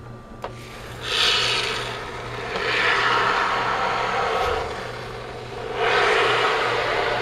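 Can of expanding polyurethane spray foam dispensing in three long sputtering hisses.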